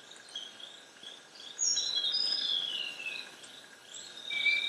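Rainforest ambience: a scatter of short, high bird chirps and whistles, with a louder run of falling whistled notes about two seconds in. A steady, high insect drone starts near the end.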